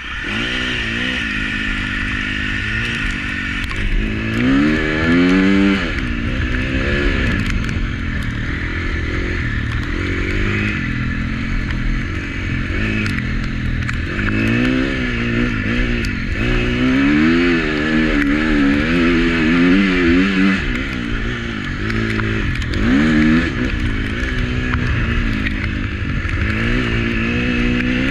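Husqvarna FC350's 350 cc four-stroke single-cylinder engine being ridden on a motocross track, its revs rising and falling again and again as the rider opens and closes the throttle, with clear climbs in pitch several times.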